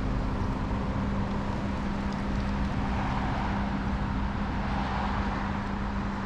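Steady motor drone: a constant low hum with rumble and a rushing noise that swells a little in the middle, like an engine running.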